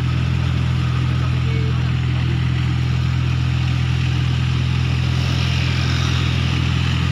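A vehicle engine idling close by: a steady, unchanging low hum.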